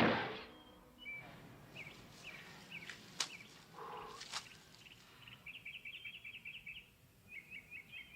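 Small birds chirping in short scattered calls, breaking into a quick run of twittering about two-thirds of the way through. There are two sharp clicks in the middle.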